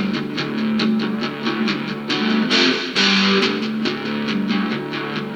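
Rock music in an instrumental break between vocal lines: a strummed electric guitar in a steady rhythm over a sustained bass line.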